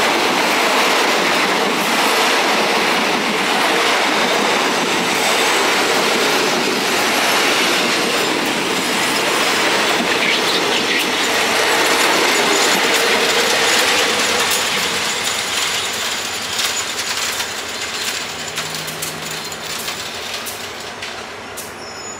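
Passenger train 445 rolling past on the rails, a loud, steady rush of wheels and carriages. It fades away over the last several seconds as the train moves off.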